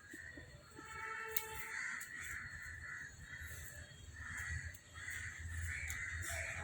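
Birds calling: a run of about eight short, harsh calls, with a steady high hiss underneath.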